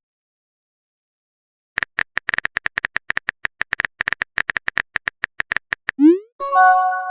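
After about two seconds of silence, a run of rapid clicks from a phone's on-screen keyboard, as a chat message is typed. Near the end comes a short rising swoosh followed by a chime of several notes, the sound of the message being sent.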